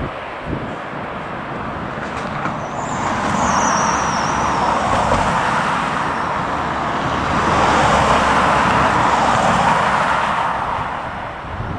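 Jet airliner's engines passing, a steady rush that swells twice and fades near the end, with a thin high whine falling in pitch as the aircraft goes by.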